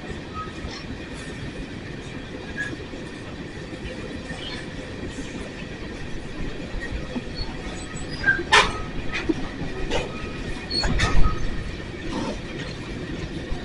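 Empty coal cars of a freight train rolling past on jointed track: a steady low rumble of wheels, faint thin wheel squeal and a few sharp metallic clanks, the loudest about eleven seconds in.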